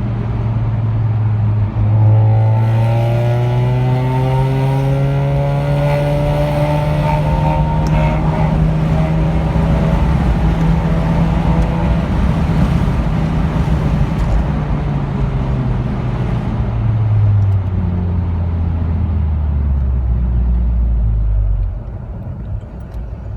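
Mazda RX-8's 13B twin-rotor rotary engine pulling hard under acceleration. Its pitch climbs for several seconds and holds high, then falls away as the car slows. The sound drops off sharply near the end as the throttle is released.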